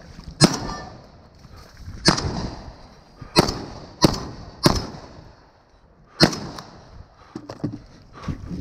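Six gunshots fired at uneven intervals over about six seconds, each trailing off in a short echo.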